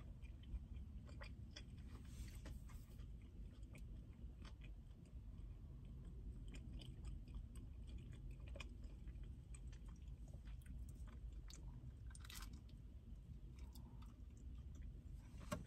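Faint close-up chewing of pizza, with soft wet mouth clicks, over a low steady hum.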